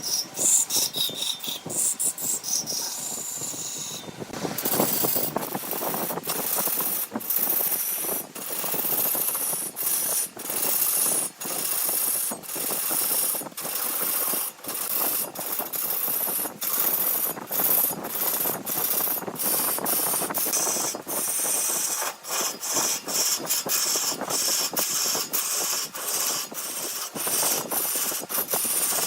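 A turning tool cutting wood on a spinning lathe: a continuous scraping hiss, broken by brief gaps every second or so.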